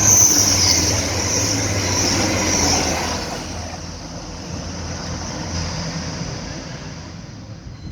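A train running through the station, a low rumble under a high hiss that is loudest for the first three seconds and then fades away.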